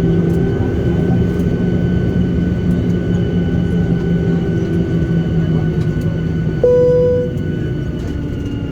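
Steady hum inside a Boeing 737-800 cabin parked at the stand, with a single cabin chime about six and a half seconds in; the hum eases slightly just after the chime.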